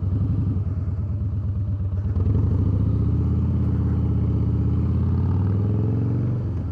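Harley-Davidson Softail Deluxe V-twin engine running on the move. It picks up about two seconds in and climbs slowly in pitch as the bike accelerates, then eases off briefly near the end.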